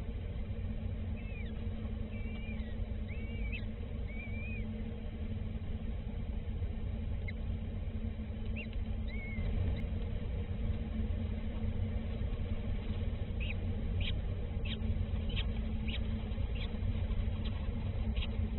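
Small birds chirping: a few short arched chirps in the first few seconds and again near the middle, then a quick run of sharp high peeps in the last few seconds, over a steady low rumble.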